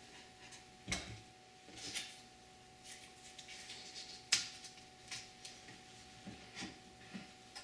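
A few separate light knocks and clicks from clamps and oak pieces being handled during a glue-up, the sharpest about four seconds in.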